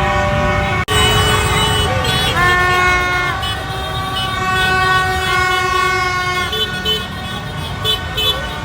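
Horns blowing long, steady toots, several overlapping at times, over a dense low rumble of street traffic and crowd.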